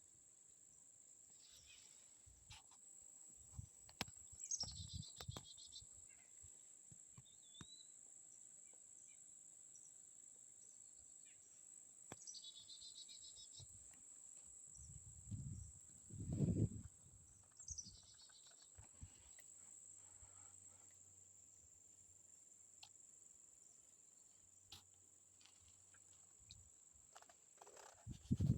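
Faint steady high-pitched insect drone, with little birds giving short trilled chirps four times and a few low thuds, the loudest about two-thirds of the way through.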